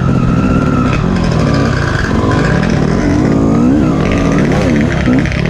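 Off-road dirt bike engine revving hard, its pitch rising and falling over and over as the throttle opens and closes and the gears change.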